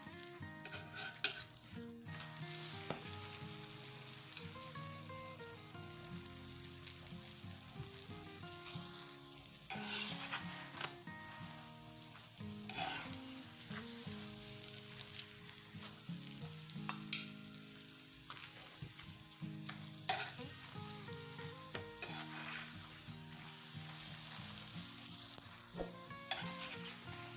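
Chapati sizzling in a hot frying pan while a metal spatula presses and turns it, with occasional sharp scrapes and taps of the spatula against the pan.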